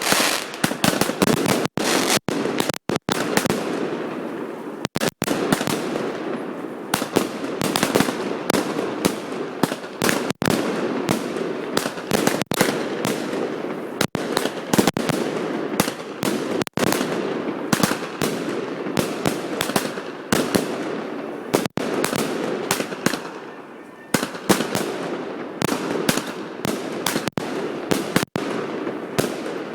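Fireworks display going off in rapid succession: many sharp bangs and crackles every second over a continuous din of bursts. The sound briefly cuts out a few times.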